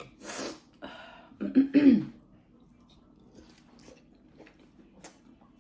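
A person coughing and clearing their throat: a breathy burst, then two loud short throaty coughs about one and a half seconds in, followed by faint scattered clicks of chewing.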